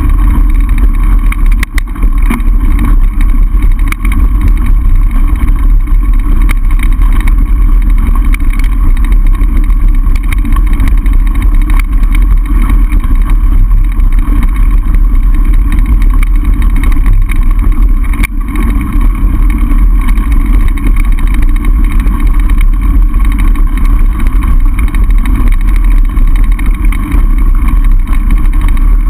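Loud, steady wind rumble buffeting a camera microphone on a mountain bike riding downhill, with rattles from the bike over the trail, including a couple of brief knocks.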